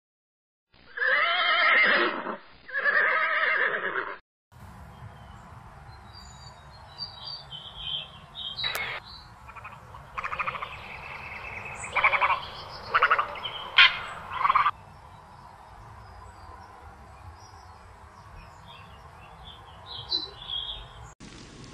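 A horse neighing twice in quick succession. Then a steady low background with scattered short bird calls and chirps, busiest about ten to fifteen seconds in.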